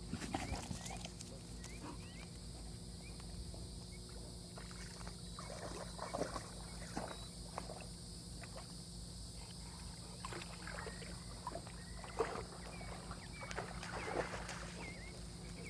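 Soft, irregular splashing and sloshing of water, with a few louder splashes about six and fourteen seconds in.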